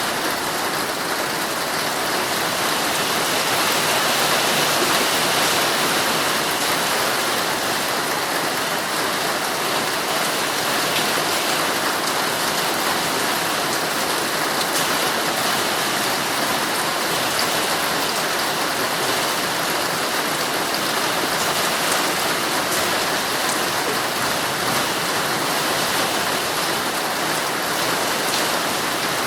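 Heavy rain falling steadily on a tent's fabric, heard from inside the tent as a dense, even hiss, swelling slightly a few seconds in.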